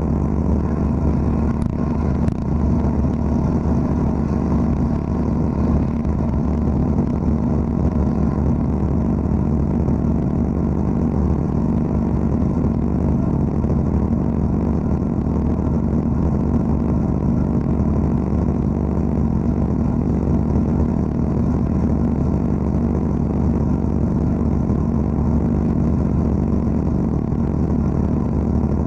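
Wet abrasive blasting (aquablasting) equipment running steadily: a continuous, even machine drone with no breaks.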